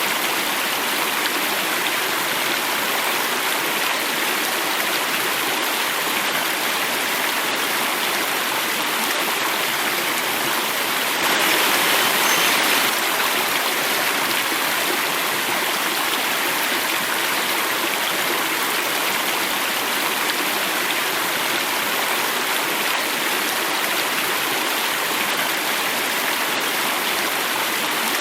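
Water running and falling steadily over rocks in a small stream or cascade, an even rushing splash. About eleven seconds in it swells a little louder for a couple of seconds.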